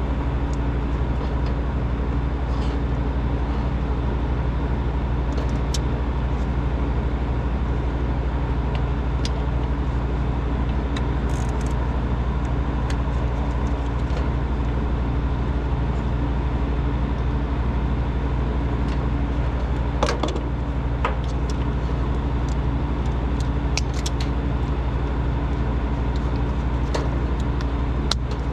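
A machine running steadily with an even low hum, with a few faint clicks and taps over it.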